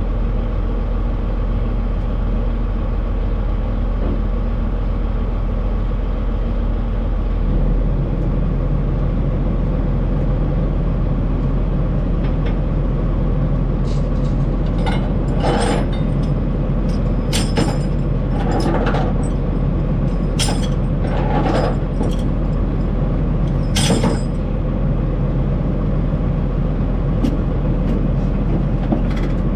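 Semi truck running down the road, a steady engine hum with road noise; the engine note shifts about seven seconds in. Between roughly the middle and two-thirds of the way through comes a series of short, sharp knocks and rattles.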